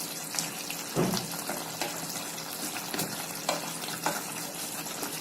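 Chicken curry cooking in a pan with a steady sizzle while it is stirred with a spoon, which knocks against the pan a few times.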